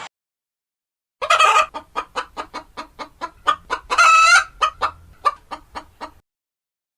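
A chicken clucking in a quick series, about four or five clucks a second, with a longer, louder squawk in the middle. It starts about a second in and cuts off abruptly near the end.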